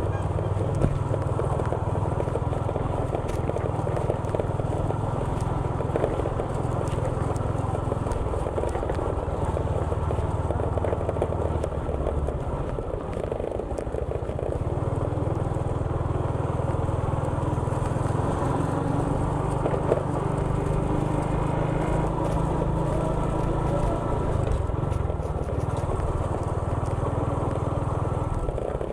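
Motorcycle running steadily while being ridden along a road, with a constant low rumble.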